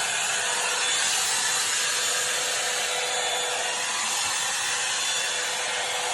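SARCCH hot air brush (hair dryer brush) running steadily, its fan blowing with an even rush of air and a faint steady whine underneath.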